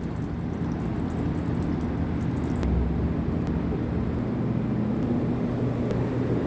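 Grease-trap waste pouring steadily out of an opened drain valve on a vacuum truck, over the steady hum of the truck's running engine.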